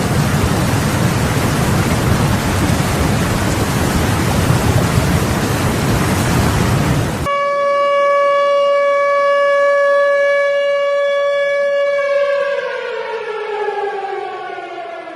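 A steady, loud rush of heavy rain that cuts off suddenly about seven seconds in. A civil-defence warning siren then holds one steady tone and, a few seconds later, winds down with its pitch falling.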